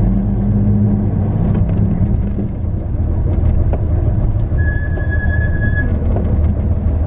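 Hino Melpha 7 bus heard from inside the cabin, its diesel engine and running gear giving a steady drone on the move. Midway a high electronic beep sounds for a little over a second.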